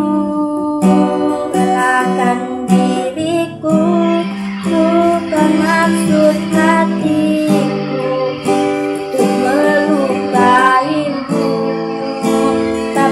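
A voice singing a melody over a strummed acoustic guitar.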